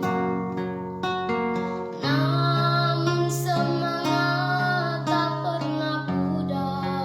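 Acoustic guitar picking, with a singing voice coming in about two seconds in and holding wavering notes until about six seconds in.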